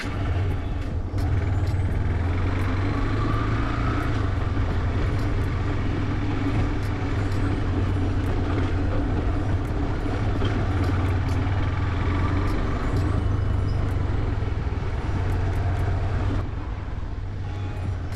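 Yamaha motorcycle engine running steadily under way, a constant low hum that eases off a little near the end.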